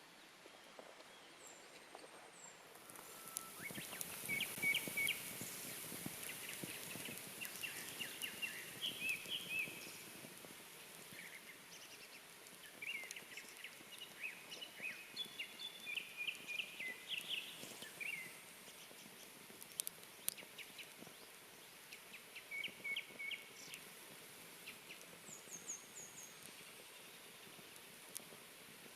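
Small birds chirping in quick clusters of short calls over a steady high hiss that comes in about three seconds in, with a few sharp pops from the wood fire.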